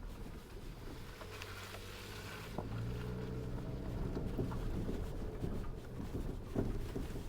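Suzuki Jimny JB74's 1.5-litre four-cylinder engine running at low revs while driving off-road. It gets louder about three seconds in, with scattered knocks and clicks over it.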